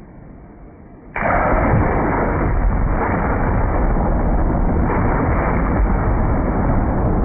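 Thunder from a nearby lightning strike: a sudden loud crack about a second in, then continuous heavy rumbling that stays loud, with a couple of further surges.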